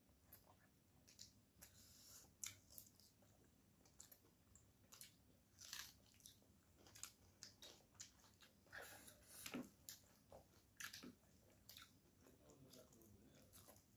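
Faint chewing and lip-smacking of people eating rice by hand: a string of soft, irregular mouth clicks.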